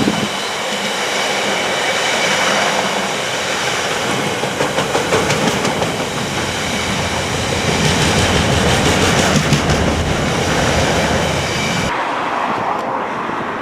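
A train passing close by on the rails, with wheels clattering over the track and a steady high ringing from the wheels and rails, cut off abruptly near the end.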